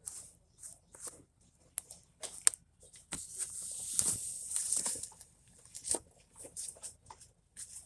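Tools being handled: scattered light clicks and knocks, with a brief rustling hiss about three to five seconds in.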